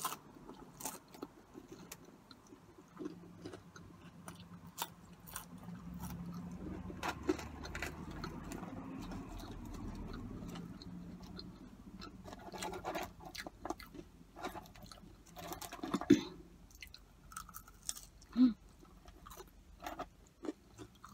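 Close-miked chewing of cheesy curly fries, with many short wet mouth clicks. A faint low hum runs through the middle part, and a couple of louder clicks come later on.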